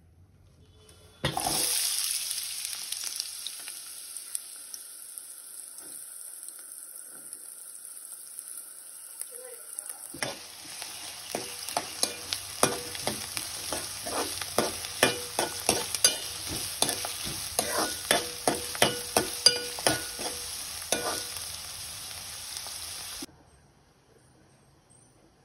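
Chopped onions and green chillies sizzling in hot oil in an aluminium pan, starting suddenly and loud about a second in, then easing to a steady sizzle. From about ten seconds in, a metal spoon stirring and knocking against the pan about twice a second over the sizzle. Both cut off near the end.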